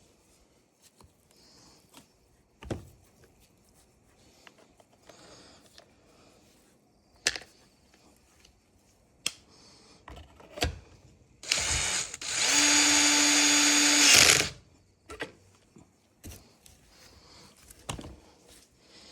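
A cordless power tool's electric motor runs at a steady pitch for about three seconds, about two-thirds of the way in. Scattered knocks and clicks of tools and parts being handled come before and after it.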